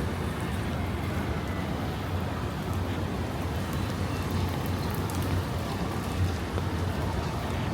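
Steady rain falling in a city street, an even hiss with a constant low rumble underneath.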